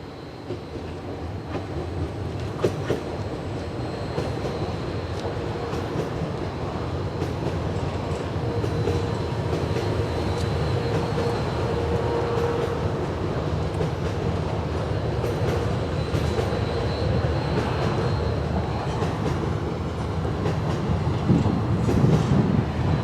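A train running past on the tracks at close range. It grows louder over the first few seconds and then holds, with scattered clicks of wheels over rail joints and a faint high whine. It gets rougher and louder near the end.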